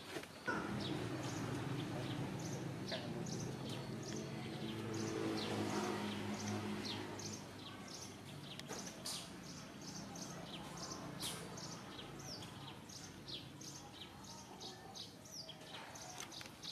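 Small birds chirping in quick, short, high calls all through, with a low droning hum that swells and fades over the first half.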